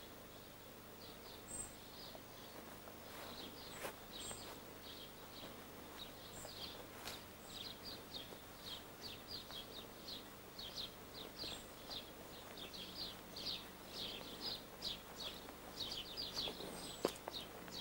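Small bird chirping over and over, a few short high chirps a second, growing busier toward the end, over a faint steady hum. A couple of sharp knocks come near the end.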